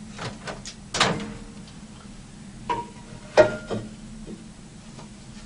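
A few separate clicks and knocks, several with a short ringing clink after them, as a soup cup and its lid are handled and set down. A low steady hum runs underneath.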